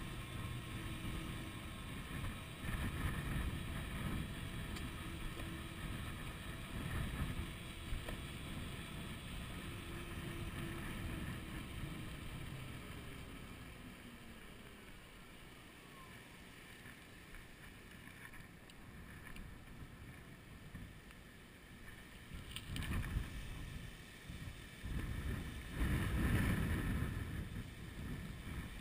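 Wind buffeting the microphone of a chest-mounted GoPro while an electric bicycle is ridden, heard as a low, uneven rumble. It eases in the middle and comes back in strong gusts near the end. A faint whine drops in pitch about halfway through.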